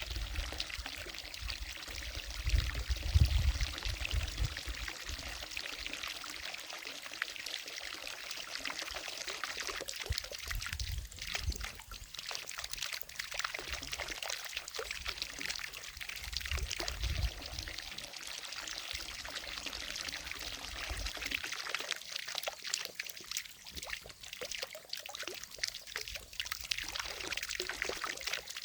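Water falling from a fountain into a lake, a steady splashing trickle, with a low rumble coming and going a few times.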